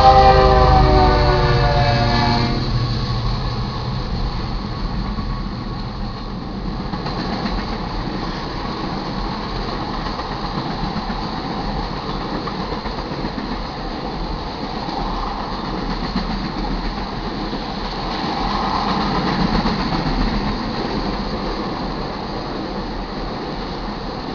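Locomotive air horn on the lead unit of a freight train, its chord sagging slightly in pitch before it stops about two seconds in. Then the steady rumble and clatter of the crude oil train's tank cars rolling past on the rails.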